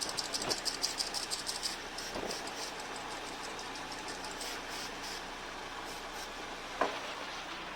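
Nissan Tsuru III car engine running at idle, with a fast, even ticking for the first two seconds and a few single sharp clicks, the loudest near the end.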